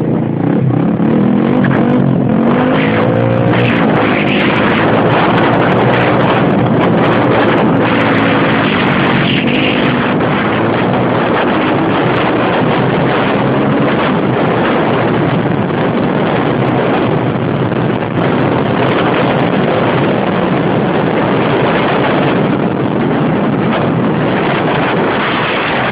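Xmoto XB-32 125cc pit bike engine revving up and falling back again and again as the bike is ridden, with wind rushing over the helmet-mounted microphone.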